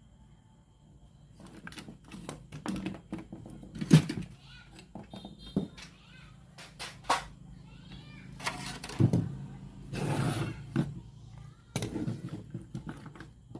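Irregular clicks, knocks and short scrapes of hands and tools working on a Sony CFS-515S radio cassette recorder, over a faint low hum.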